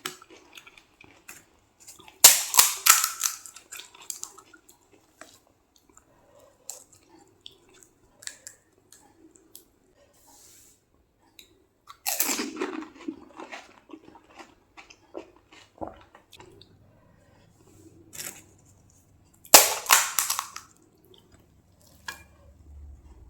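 Crisp, hollow fried puris (panipuri shells) being bitten and crunched, close up: three loud crackling crunches, about two seconds in, about twelve seconds in and near the end, each fading over a second or so. Between them, quieter wet chewing and mouth clicks.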